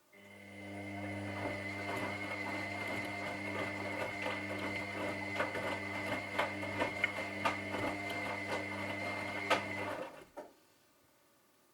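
Washing machine motor turning the drum: a steady hum with a high whine that starts, runs for about ten seconds and stops suddenly, typical of the wash cycle's on-off drum turns. Light clicks and knocks come along the way, more of them in the second half, and a single click follows just after it stops.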